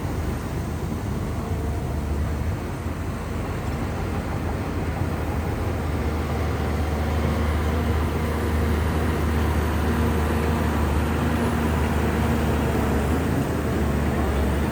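Large Shantui bulldozer's diesel engine running steadily as the dozer pushes mud and soil. The engine grows somewhat louder about halfway through.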